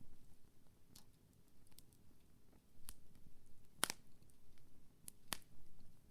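Wood fire crackling: about five sharp pops of burning wood, the loudest nearly four seconds in and two close together near the end, over a low rumble of the fire.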